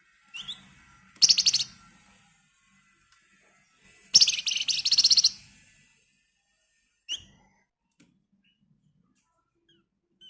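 Flamboyan songbird singing two loud, dense, rapid trills, the first short and the second about a second long, with single short high notes before and after. This is the fast rattling song bird keepers call 'ngebren'.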